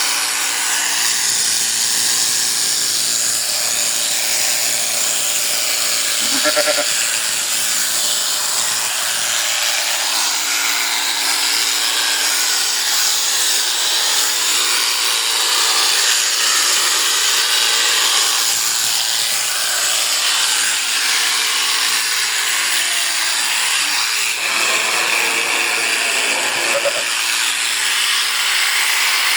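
Electric sheep shears running steadily with a constant buzz while shearing. A sheep bleats briefly twice, once about a quarter of the way in and once near the end.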